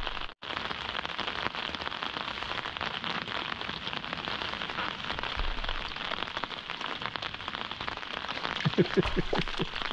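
Steady rain pattering in a dense hiss of small drops, with a few dull thumps near the end.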